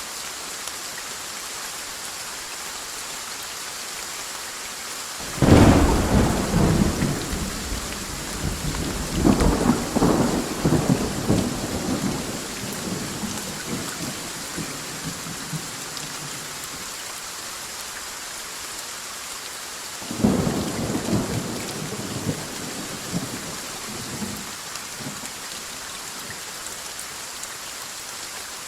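Steady rain with two rolls of thunder: a sudden crack about five seconds in that rumbles on in waves for several seconds, and a second, weaker clap about twenty seconds in that rumbles off.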